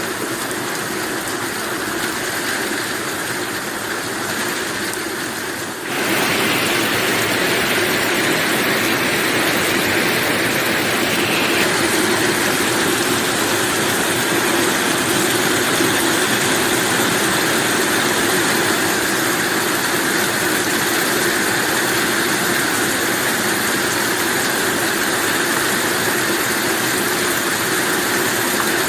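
Steady heavy rain, a dense even hiss. About six seconds in, it turns abruptly louder and brighter.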